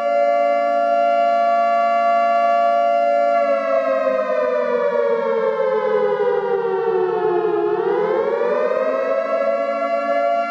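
Civil defense siren of the nuclear-attack warning kind, wailing loud and steady on a sustained chord. About three seconds in its pitch starts to sink slowly for several seconds, then swoops back up quickly and holds steady again.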